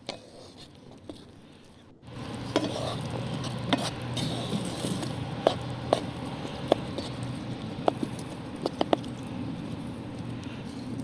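Food frying in a pan: a steady sizzle that comes in about two seconds in, with a utensil clicking against the pan now and then.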